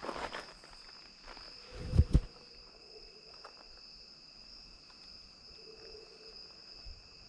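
Evening insects, cricket-like, trilling steadily in two high tones, with rustling at the start and two dull thumps close together about two seconds in.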